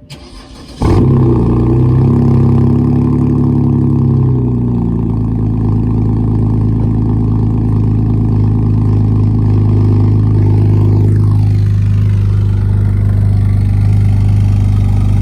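BMW E9x 3 Series engine cold-started through a custom exhaust (3-inch single pipe from the stock headers, Vibrant Ultra Quiet resonator, dual tips): a brief crank, then it catches about a second in with a loud flare. It runs at a raised, slightly wavering cold-start idle, drops lower around four to five seconds in, and settles into a steady idle.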